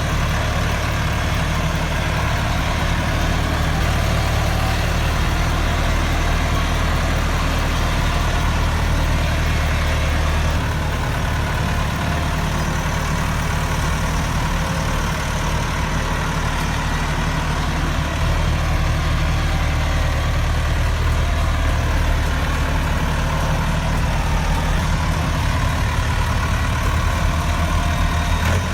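Heavy tractor diesel engine running steadily at a constant low pitch, with no clear revving.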